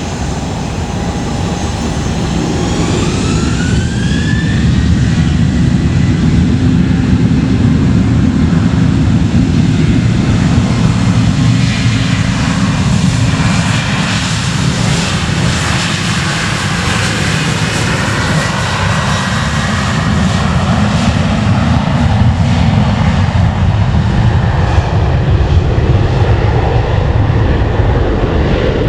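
Jet airliner engines spooling up, their whine rising about three seconds in, then a loud, steady rumble of engines at high power.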